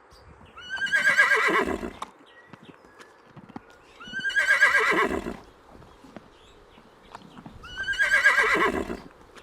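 A horse whinnying three times at even intervals of about three and a half seconds. Each neigh is a loud, quavering call that starts high and falls in pitch at the end. Faint knocks and ticks sound between the calls.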